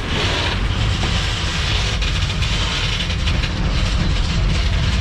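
Freight train running along the rails, its wheels rumbling and clattering steadily, heard from on board a wagon as it pulls into a rail yard.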